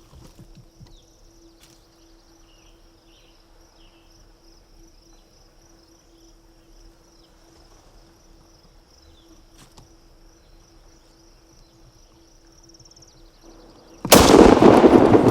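A single loud shotgun blast near the end, the noise staying loud afterwards. Before it, quiet woods with a steady high insect buzz and a few faint chirps.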